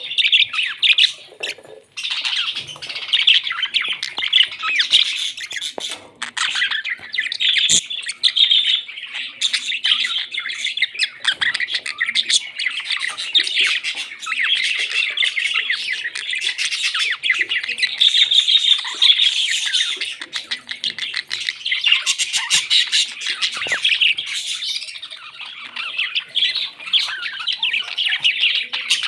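Parrots chattering and squawking without pause, a dense run of rapid high chirps and clicks with a brief lull about two seconds in.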